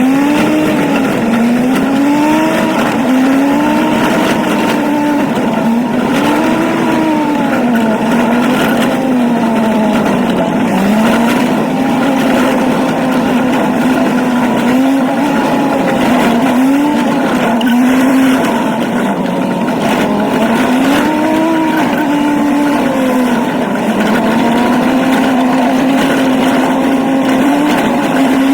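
Old truck's engine running under load, its pitch rising and falling again and again as the revs go up and down while driving.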